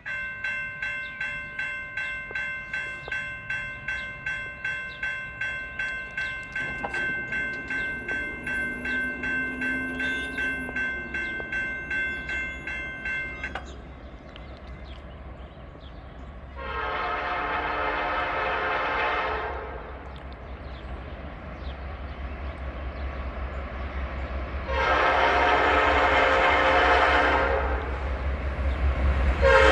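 Freight locomotive approaching: a crossing bell rings rapidly, about two strokes a second, then stops. The locomotive's rumble builds, and its air horn sounds two long blasts, with a third starting at the very end.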